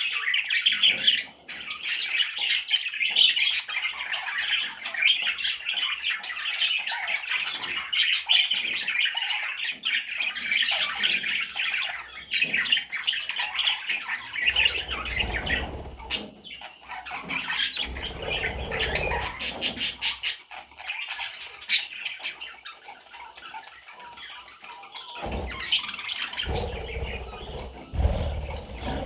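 Budgie chicks squawking and chattering in a dense, raspy stream of calls, thinning out about halfway through, when low rustling and thumps of movement join in.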